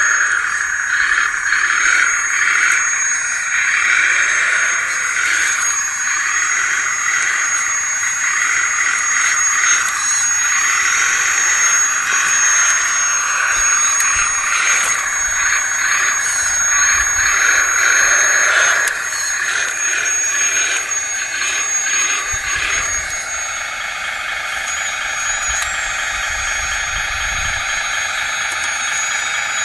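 Electric hydraulic pump of a 1/16-scale RC wheeled excavator running, with a steady high whine over a dense mechanical noise. The sound shifts about two-thirds of the way through and then runs steadier.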